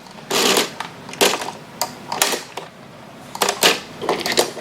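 Plastic Tomica toy parking garage being worked by hand: a series of irregular sharp clicks, clacks and short rattles as its car lift moves and toy cars are pushed into the parking bays.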